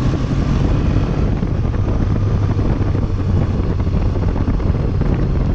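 Triumph Bonneville's parallel-twin engine running at a steady pitch on the move.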